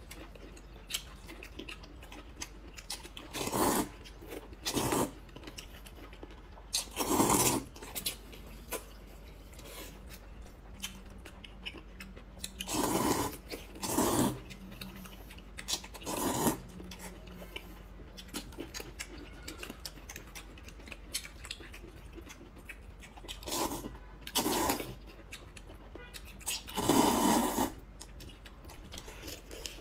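A person eating noisily close to the microphone: short bursts of chewing and mouth sounds, about nine in all, at irregular intervals, over a faint background.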